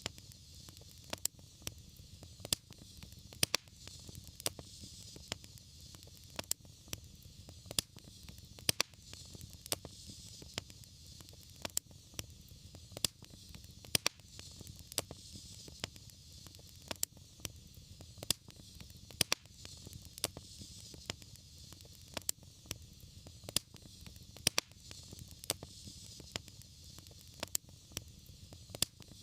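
Fireplace fire crackling: irregular sharp pops, often two or three a second, some louder than others, over a soft steady hiss and low rumble of the burning fire.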